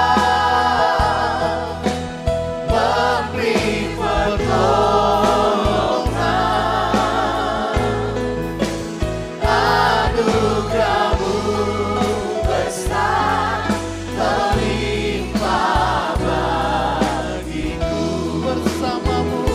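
Live church praise-and-worship music: several voices singing an Indonesian worship song with vibrato, over a band with sustained bass notes.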